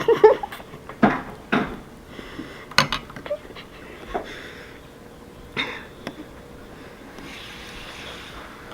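Someone eating a milk-soaked waffle from a bowl with a fork: a string of irregular short eating sounds over the first six seconds or so, then a faint steady hiss.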